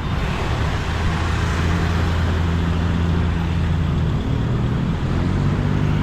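A large engine running steadily with a deep hum, its pitch shifting about four seconds in, over a wash of noise.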